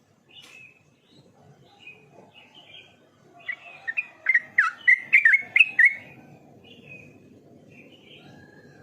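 Sooty-headed bulbul singing. A rapid run of about a dozen loud, quick notes starts about three and a half seconds in and lasts some two seconds, with softer scattered chirps before and after.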